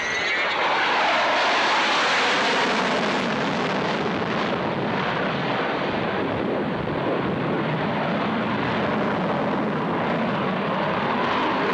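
F-16 fighter jet engine roaring as the jet flies its display, with a sweeping whoosh in the first second or two as it passes, then a steady loud roar.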